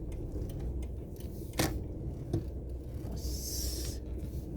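Car cabin noise while driving slowly: a steady low engine and road rumble, a sharp click about a second and a half in, and a brief hiss about three seconds in.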